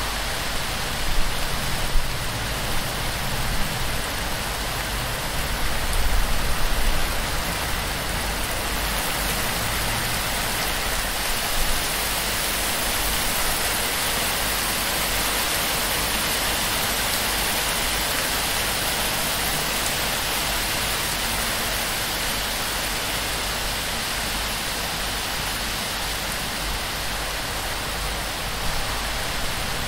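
Heavy torrential rain falling on a palm-thatch roof and streaming off its fronds, a dense steady hiss. There are a few brief louder surges in the first seven seconds.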